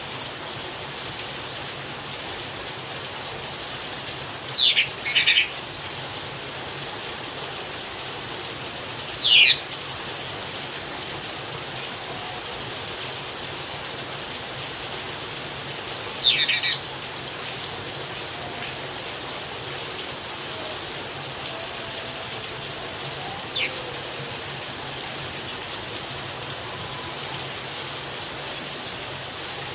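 Steady rain hiss with a Javan myna giving short, sharp calls that fall in pitch: a quick pair about four seconds in, single calls near nine and sixteen seconds, and a brief one near the end.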